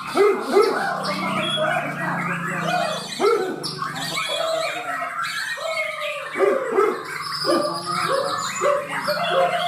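Several Bornean white-rumped shamas (murai batu Borneo) singing at once in competition, a dense jumble of varied whistles and chirps, over a steady low hum.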